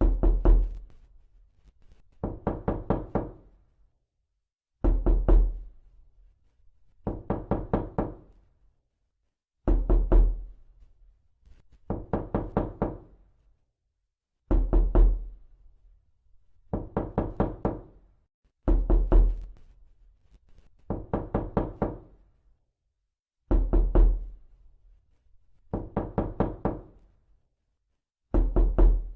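Repeated knocking: quick runs of several sharp knocks, each run about a second long, coming about every two and a half seconds in an even rhythm. Every other run starts with a heavier thud.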